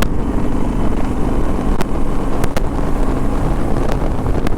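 Motorcycle engine running at a steady pitch, with a few sharp clicks.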